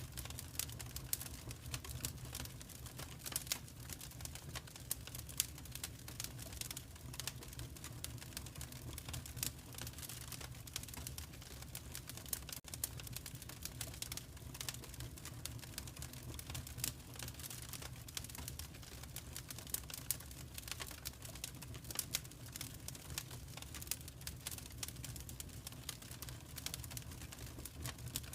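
Fireplace fire crackling: a dense, irregular run of small pops and snaps over a steady low rumble.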